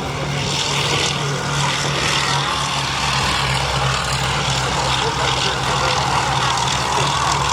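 Piston-engined propeller aircraft running steadily, a constant low engine hum under a wide rushing noise.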